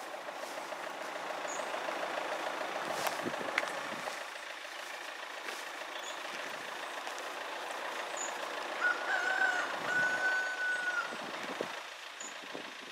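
London Midland diesel passenger train passing over a level crossing: a steady rush of engine and wheels on the rails, swelling and fading, with a thin high squeal held for about two seconds near the end.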